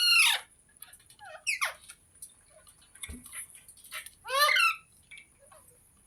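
Pet green parrot squawking: three loud, harsh calls, at the start, about a second and a half in and near the middle, with faint short chirps between them.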